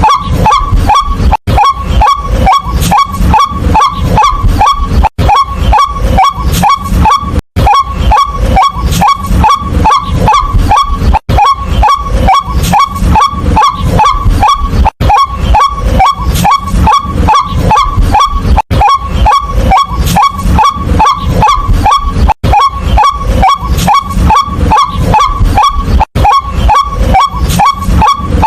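White-breasted waterhen calling continuously: a loud, rapid run of repeated short 'kwak' notes, about three or four a second, broken by a brief gap roughly every four seconds.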